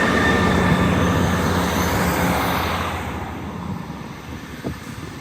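Class 158 diesel multiple unit pulling away, its diesel engines running with a steady hum and whine, loud at first and then fading after about three seconds as it draws off.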